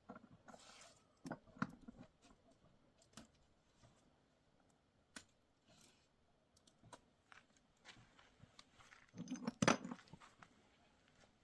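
Scattered light clicks and taps, with a louder cluster of knocks about nine and a half seconds in.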